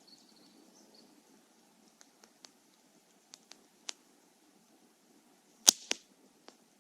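Bonfire wood crackling: scattered sharp snaps, then one loud pop followed closely by a second near the end.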